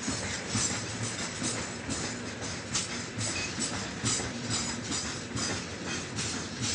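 Freight train of open gondola wagons rolling past close by: a continuous rumble of wheels on rail, with sharp wheel clacks over the rail joints about twice a second.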